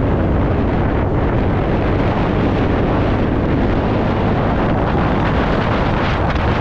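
Steady wind rush over the microphone of a moving TVS Ntorq scooter, loud and unbroken, with the scooter's running and road noise under it.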